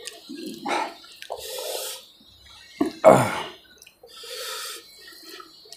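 Wet chewing and lip-smacking of a person eating rice and curry by hand, in short bursts. The loudest smack comes about three seconds in.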